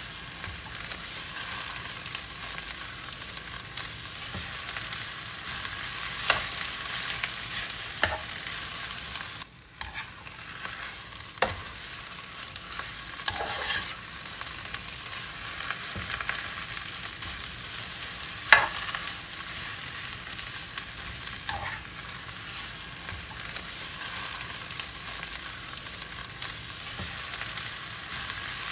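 Food sizzling in a hot pan: a steady high hiss with scattered small pops. The sizzle drops out briefly about ten seconds in.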